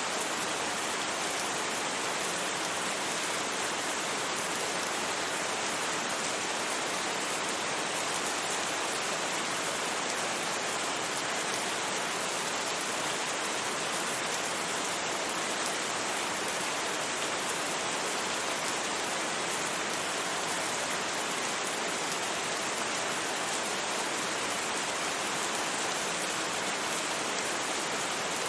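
Steady rain, an even hiss with no separate drops, thunder or changes standing out.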